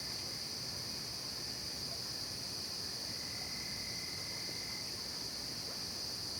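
Night-time insect chorus in a late-summer forest: a steady, high-pitched trilling with no breaks. A fainter, lower trill fades in about three seconds in and stops near five seconds.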